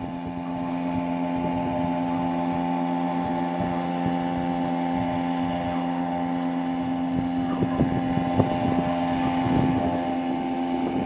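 Hangkai 3.5 hp outboard motor running at a steady, unchanging pitch, pushing a small boat slowly along the river.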